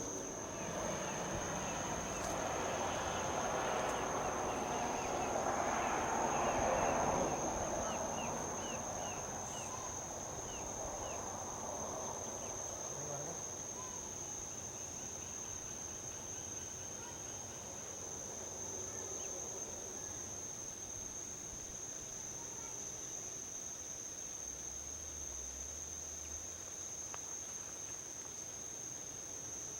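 A steady, high-pitched drone of insects, with one vehicle passing on a highway: its tyre and engine noise swells to a peak about seven seconds in and fades away by about twelve seconds. A short run of quick chirps comes around ten seconds in.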